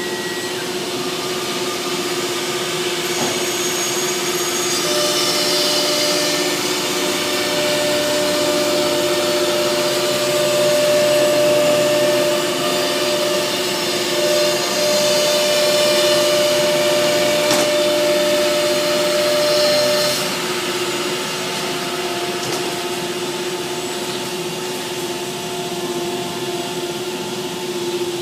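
Double-head woodworking CNC engraving machine running with a steady motor whine. It grows louder from about five seconds in to about twenty, where a second, higher tone joins, then settles back.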